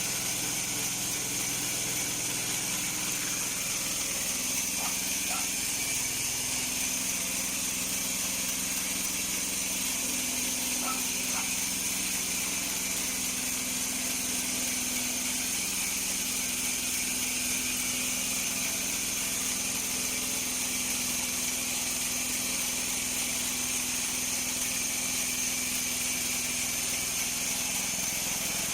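The engine of a portable bandsaw mill running steadily under a constant high hiss; its pitch steps up about four seconds in and then holds.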